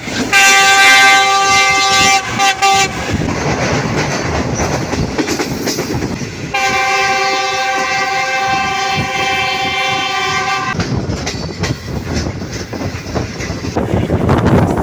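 Diesel locomotive's multi-tone air horn sounding two long blasts, the first about two and a half seconds and the second about four seconds, over the rumble and rail clatter of a moving train.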